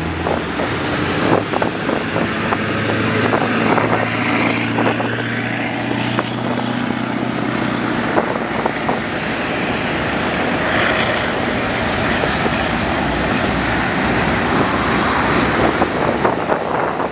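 A large engine runs with a low, steady hum that fades out about eight seconds in, under a constant rush of wind and vehicle noise.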